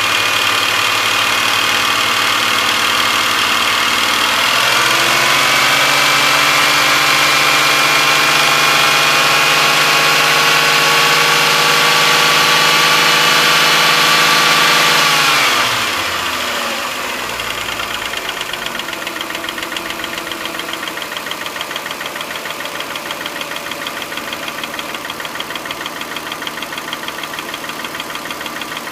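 2006 Suzuki Verona's 2.5-litre inline-six running. It idles, is revved up about four seconds in and held at a steady higher speed, then drops back about fifteen seconds in. It settles into a quieter idle with a fast, even pulse.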